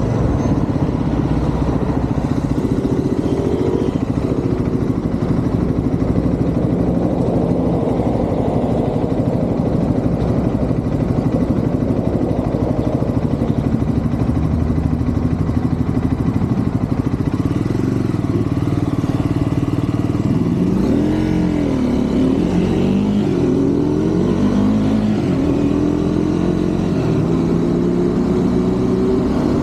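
Triumph Scrambler 400 X's single-cylinder engine running under way, steady at first, then from about two-thirds of the way through revving up and dropping back several times as it pulls away through the gears.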